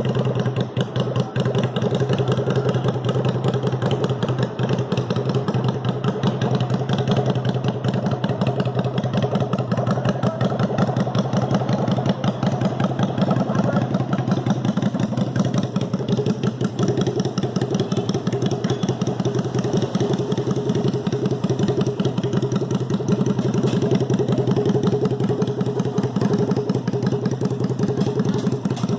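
Suzuki Intruder 250 V-twin motorcycle engine idling steadily, with a fast, even exhaust pulse.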